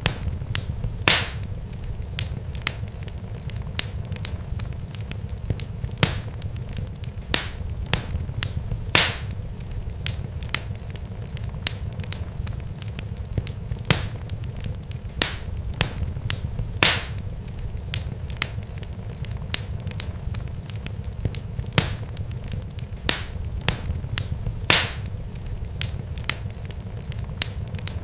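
Irregular sharp crackles and pops, some louder than others, over a steady low rumble.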